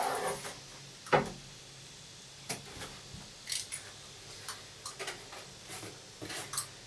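Scattered light clicks and taps, with one sharper knock about a second in, from foam-board template pieces being handled and positioned.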